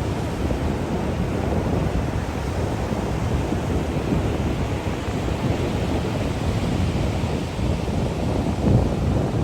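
Wind rumbling on the microphone: a steady low, flickering noise with no distinct calls or knocks standing out.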